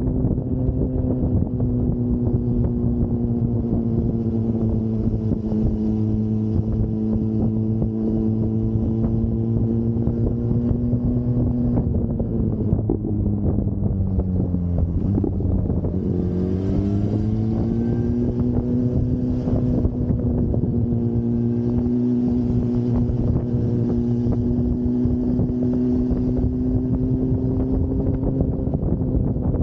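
Motorcycle engine running at steady road speed, with wind rushing over the microphone. About halfway through, the engine note sinks, dips sharply, then climbs back up as the bike slows for a bend and accelerates out of it.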